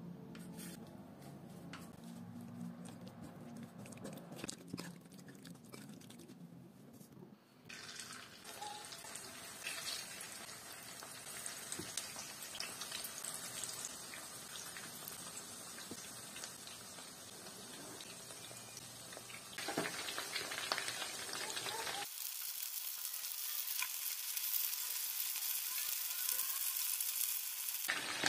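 Pieces of cornstarch-coated chicken frying in oil in a pan: a steady sizzle that starts about eight seconds in and grows louder after about twenty seconds.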